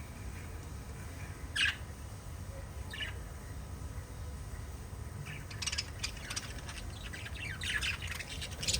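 Small pet parrots chirping: a single sharp call about one and a half seconds in, a shorter one a little later, then a busy run of quick overlapping chirps through the second half. A steady low hum sits underneath.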